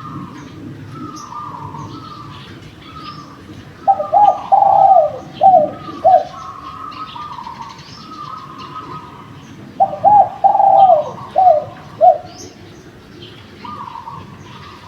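Spotted doves (derkuku) cooing: a close dove gives a loud phrase of four or five coos about four seconds in and repeats it around ten seconds. Fainter coos from other doves run throughout, with small birds chirping higher up.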